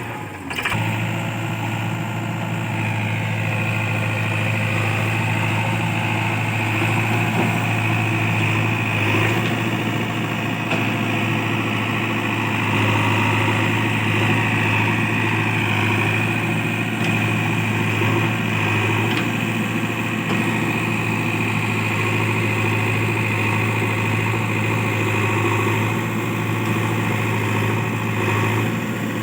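Heavy diesel engine running steadily at an even speed: a deep hum with a thin whine above it.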